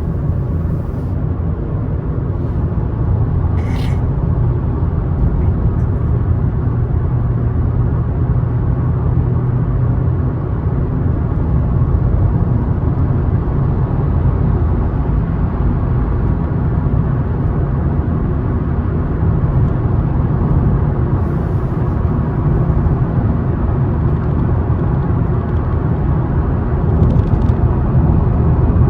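Car driving steadily on the road: a continuous low rumble of engine and tyre noise. One brief click about four seconds in.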